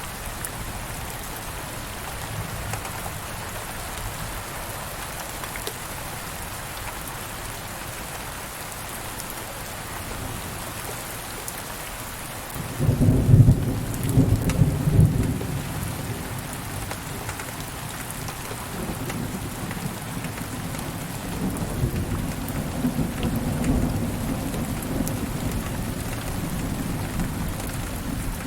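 Steady rain falling, with a roll of thunder breaking in about halfway through: a sudden deep rumble that is loudest for a few seconds, then keeps grumbling more softly under the rain.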